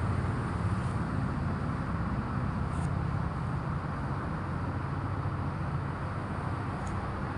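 Steady low background rumble with an even hiss, and a couple of faint brief ticks.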